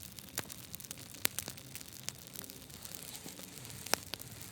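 Faint, irregular sharp clicks and crackles, a few in all, the clearest about a second in and near the end.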